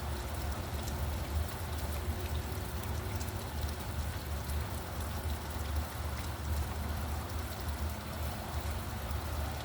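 Steady rain, with fine ticks of individual drops over an even hiss, above a constant low rumble.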